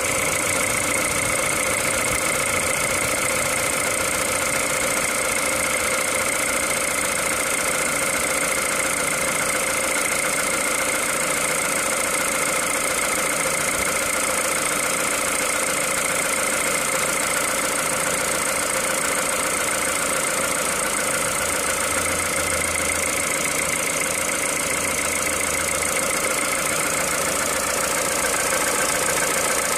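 Peugeot 207 VTi 120's 1.6-litre four-cylinder petrol engine idling steadily while cold, running on 5W-30 oil.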